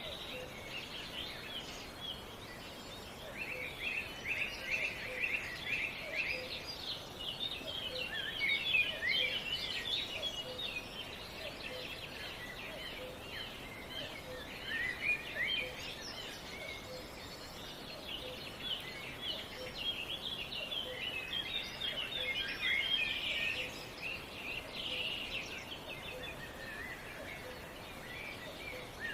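Several songbirds chirping and trilling, a busy overlapping chorus of short high calls, over a faint steady hiss of outdoor background. A faint low note repeats steadily underneath, under a second apart.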